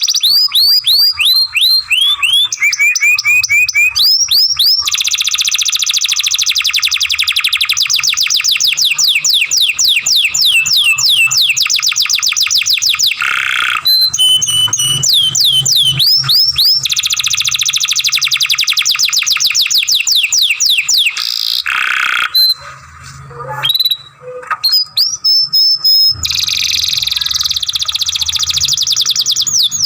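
Domestic canary singing long, fast trills of repeated sweeping chirp notes, one run after another, with a short broken-up pause about three quarters of the way through.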